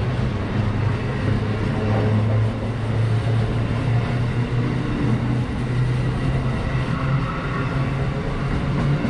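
Train running close by: a steady low drone with a broad rushing noise underneath.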